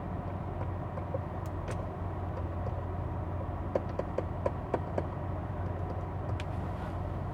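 Steady low hum of a 2020 Hyundai Sonata Limited idling, heard inside the cabin, with a few light clicks about four to five seconds in.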